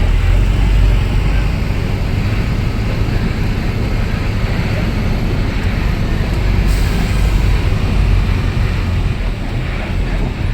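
Tipper truck's diesel engine running steadily with a deep, constant low rumble.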